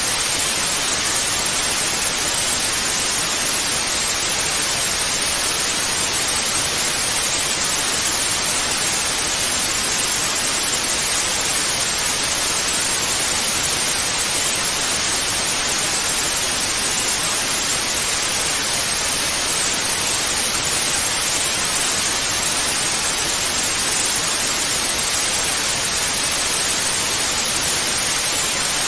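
Television static: a steady, even hiss of white noise with no change or breaks.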